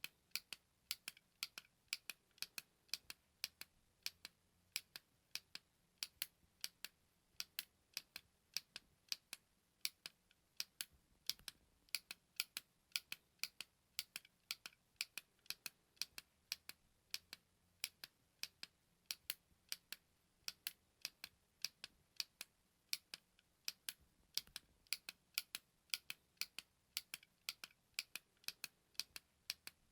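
Small push-button clicking over and over: sharp, short clicks at about three a second, somewhat irregular.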